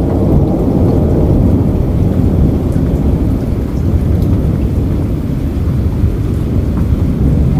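Steady rain with a deep, continuous low rumble under it and a few faint drop ticks.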